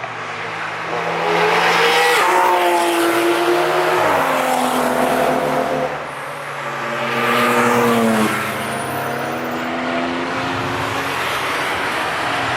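Cars passing at speed on a race track, engines at high revs. There are two loud passes, about two and seven seconds in, and each engine note drops sharply as the car goes by.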